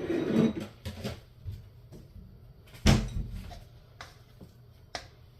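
Kitchen cupboard and plate being handled: a few sharp knocks and clacks as a plate is taken out, with the loudest knock about three seconds in.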